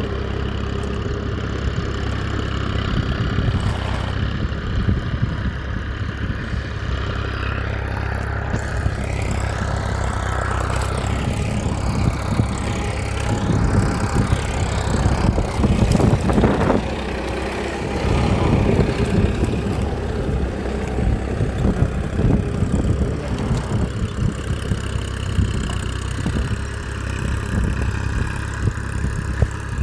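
Small engine running steadily, with rougher, louder stretches around the middle.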